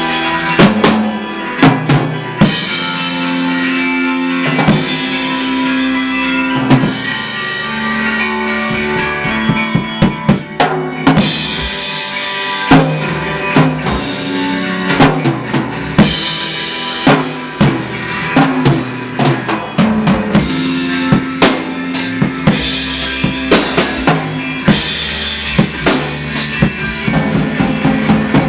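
Rock music: a drum kit playing bass drum and snare hits over sustained guitar chords.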